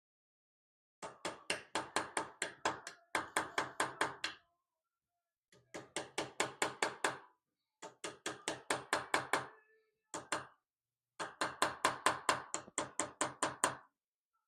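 A hammer tapping on metal in quick runs of strokes, about seven a second, each run lasting one to two and a half seconds with short pauses between, typical of light hammer work cutting a dovetail for an inlay.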